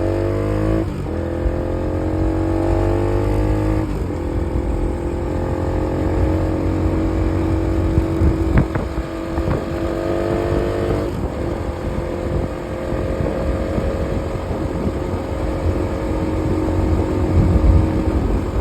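Bajaj Pulsar NS200 single-cylinder motorcycle engine running under way, its note climbing slowly and stepping to a new pitch three times, about one, four and eleven seconds in, as with gear changes. Low wind rumble runs under it.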